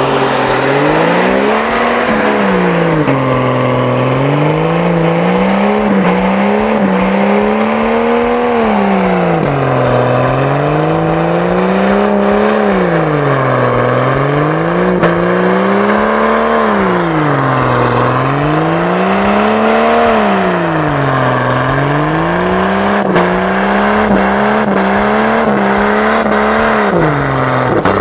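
Jeep Cherokee engine revving up and dropping back over and over, about once every two seconds, as the vehicle struggles for grip stuck in deep snow.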